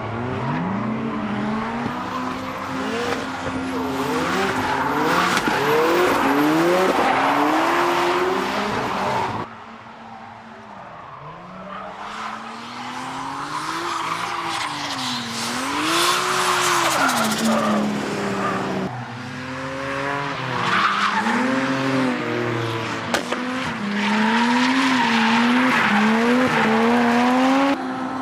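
Drifting cars at a racetrack, engines revving up and down hard with tyres squealing and skidding. The sound breaks off abruptly about a third of the way in to a quieter car that builds up again, then changes again about two thirds of the way in to another loud, revving pass.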